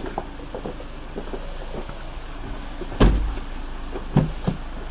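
A heavy thump about three seconds in and a lighter knock about a second later, with a few small clicks before them, over a low steady hum.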